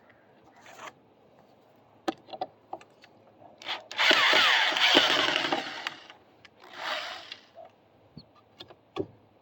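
Power drill backing screws out of wood: a run of about two seconds that dies away, then a shorter run, with scattered knocks and clicks of handling.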